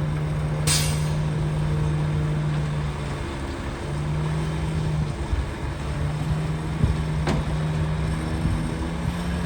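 Heavy diesel earthmoving machinery running steadily, its engine drone holding one pitch, with a short hiss under a second in and a sharp click later on.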